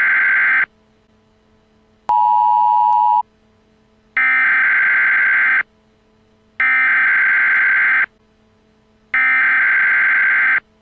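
Emergency Amber Alert tone: loud, long steady electronic beeps repeating about every two and a half seconds, with silence between. The one about two seconds in is lower-pitched and shorter than the others.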